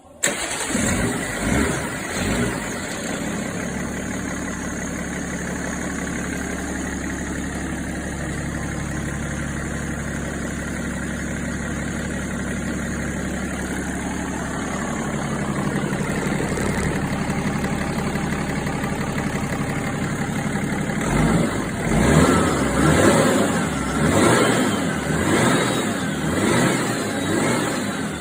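BMW M57 straight-six turbo-diesel running on its first start after being swapped into a Land Rover Defender. It surges a few times in the first couple of seconds, then idles steadily, and near the end it is revved in about six short blips.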